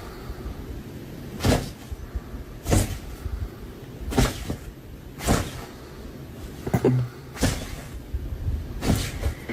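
A series of sharp knocks or bangs, about seven in all, coming at uneven gaps of roughly a second or so.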